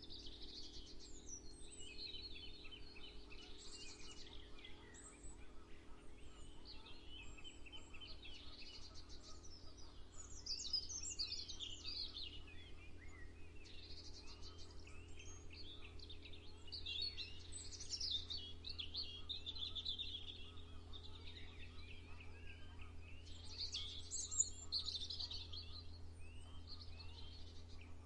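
Several birds singing and chirping at once, a busy dawn chorus of short calls and trills, over a steady low hum.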